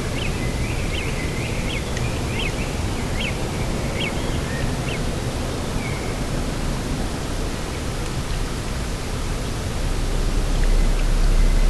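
Steady rushing of wind and sea, with a small bird giving a quick run of high chirps for the first few seconds. Near the end a low rumble swells up.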